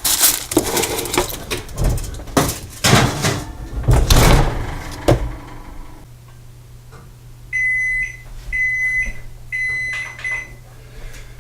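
Clattering and knocks as a tray of pizzas goes into the oven, then a low hum and the oven timer's electronic beeper sounding four high beeps, three longer and a short last one, signalling that the cooking time is up.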